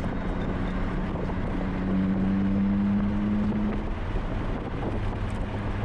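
Car engine and road rumble heard while driving. A steady drone whose engine note strengthens about two seconds in and eases off near four seconds.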